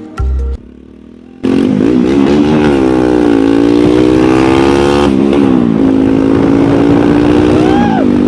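Motorcycle engine running and revving, starting abruptly about a second and a half in, its pitch rising and falling several times.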